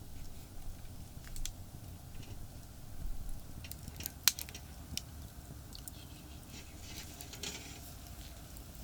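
Wood campfire crackling: scattered sharp pops and snaps, the loudest about four seconds in, over a low steady rumble of distant highway traffic.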